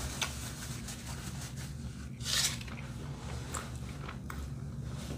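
A person chewing a mouthful of sandwich, with a few faint mouth clicks over a steady low hum. A short loud hiss about two and a half seconds in.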